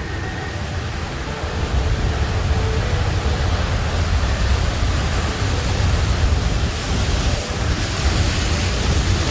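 Ocean surf breaking and washing up the beach, with wind rumbling on the microphone; the hiss of the wash swells about five seconds in.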